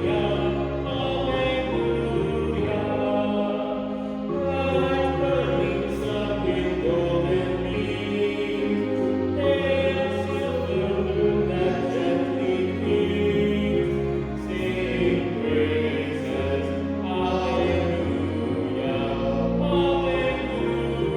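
Choral music: voices singing slow, sustained chords.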